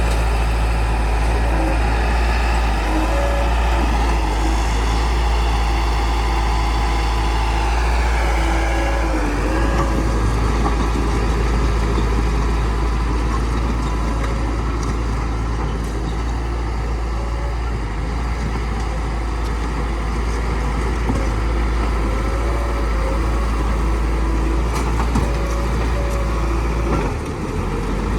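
Bulldozer's diesel engine running under load as it pushes earth, a steady low rumble. Its pitch dips and picks back up about eight to nine seconds in.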